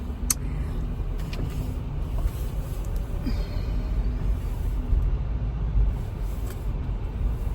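A car running, with a steady low rumble.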